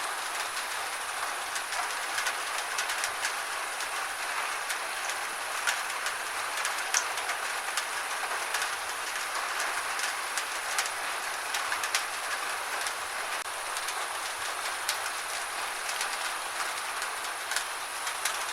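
Steady rain falling, with many sharp, irregular ticks of single drops scattered through it.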